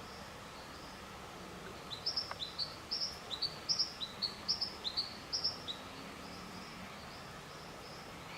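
A bird singing a quick run of short, high, upward-sweeping notes in pairs, starting about two seconds in and lasting about four seconds, over a faint steady bush background.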